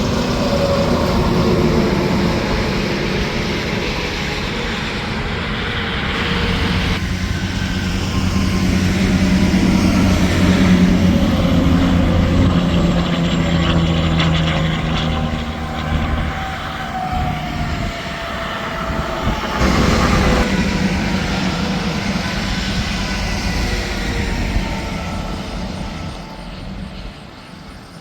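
Semi trucks and other traffic passing at highway speed, with diesel engines and tyres swelling as they go by and falling away. The passes peak a third of the way in and again about two-thirds in, and the traffic quietens near the end.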